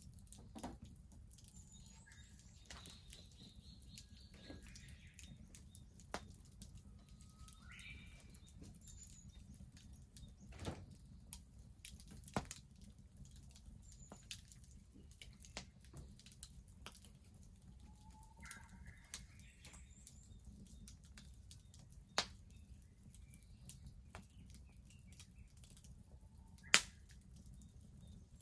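Wood bonfire crackling quietly with scattered sharp pops, the loudest near the end, while small birds chirp now and then in the background.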